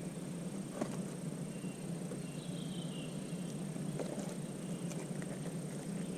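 Quiet campfire ambience: a steady low rush with a few faint sharp crackles from the fire, and a short falling whistle about three seconds in.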